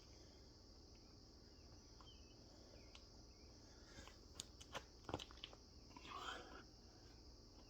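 Near silence, with crickets chirring steadily in a high, even drone. A few faint clicks and a brief rustle come in the second half.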